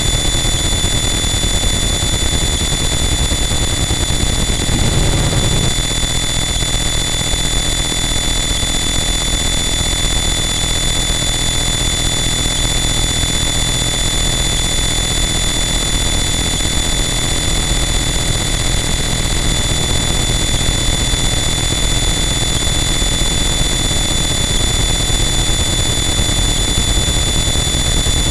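Harsh noise wall: a loud, dense, unchanging wall of distorted static with a few steady high whistling tones running through it. About five seconds in there is a brief shift in the low end.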